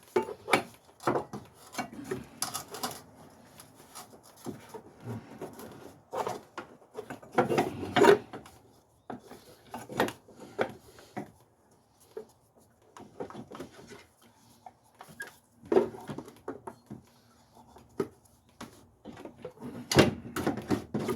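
Irregular knocks, clanks and scraping of hand tools and car parts being handled during motor mount work, with a few louder clatters spread through.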